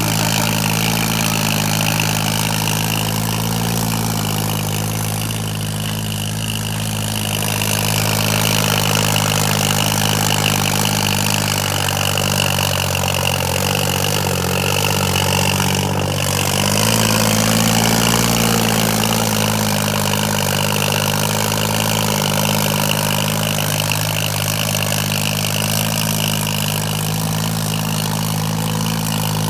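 John Deere tractor's diesel engine running steadily under load, pulling two harrows in tandem, with a steady high whine over it. Its pitch sags for a few seconds past the middle and then picks back up.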